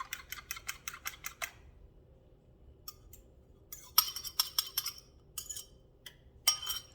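Kitchen utensil tapping rapidly against a bowl, about six taps a second for a second and a half, then after a pause scattered clinks and scrapes of utensil on cookware: beaten eggs being emptied into a hot pan.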